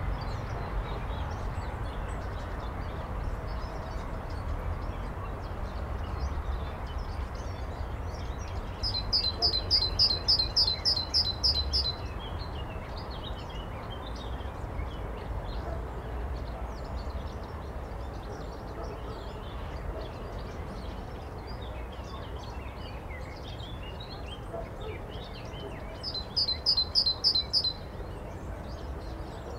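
Birdsong: a songbird sings a fast run of repeated high notes twice, once about nine seconds in for about three seconds and again near the end. Faint chirps of other birds and a steady low rumble continue underneath.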